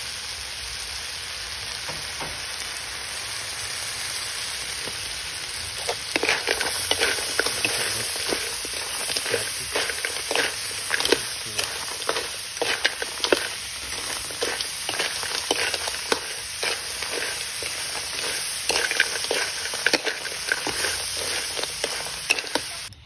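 Whole crabs with chilies sizzling in a hot wok. From about six seconds in, a metal spatula stirs them, with repeated scrapes and clacks against the pan over the sizzle.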